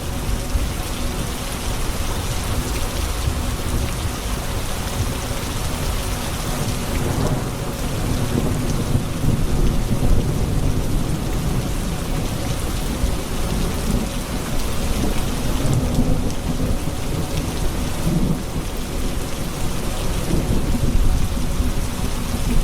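Steady rain on hard surfaces with low rolling thunder rumbling underneath, swelling several times.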